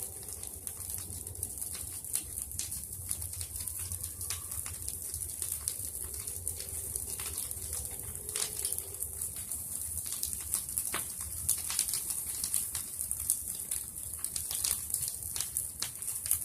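Bonfire of pruned tree branches crackling with frequent sharp pops and a steady hiss. A dove coos in soft low notes about six to nine seconds in.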